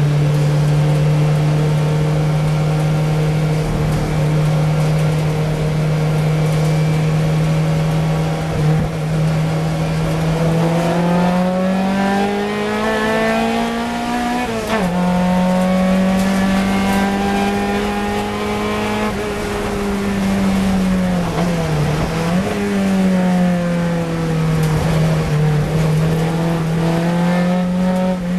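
Onboard sound of a Fiat 124 Sport Coupe race car's twin-cam four-cylinder engine running hard at high revs, with wind noise. The engine holds a steady note for about ten seconds, then climbs, drops sharply once at a gear change, falls away again later under braking for a corner, and pulls back up.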